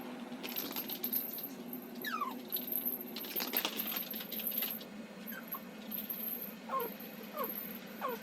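A poodle whimpering in short, falling whines, about half a dozen times, between bursts of rustling and clinking.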